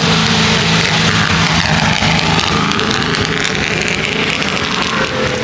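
Car engine running, its pitch dipping and then climbing over the second half as the engine revs up.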